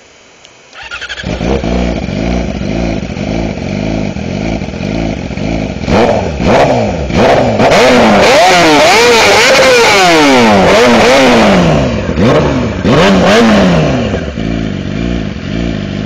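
2009 Yamaha R6 inline-four sport bike with a full Two Brothers exhaust starting up about a second in and idling, then revved in several quick blips and a long high hold before dropping back to idle near the end; loud.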